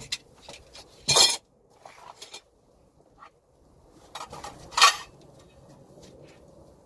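Metal brackets clinking and clattering as they are handled, with a loud clank about a second in and another near five seconds in.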